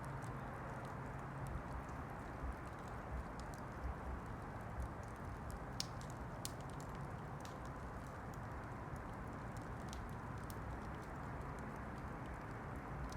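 Wood campfire burning, with scattered sharp crackles and pops over a steady low rush; the loudest pop comes about six seconds in.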